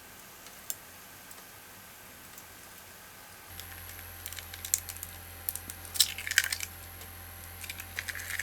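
Faint steady background, then from about three and a half seconds in, a run of light irregular clicks, taps and crinkles from utensils and food being handled.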